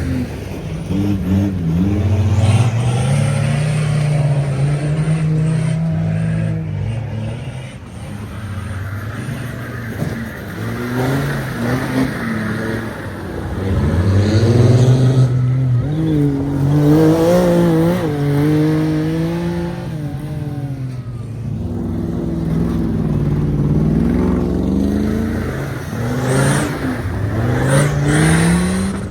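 Off-road racing 4x4 engines revving hard under load, the pitch repeatedly rising and falling as they accelerate and back off, with a quick rising rev near the end.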